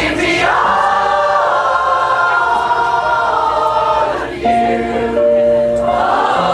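A pop choir singing in chorus, holding long notes together over an accompaniment.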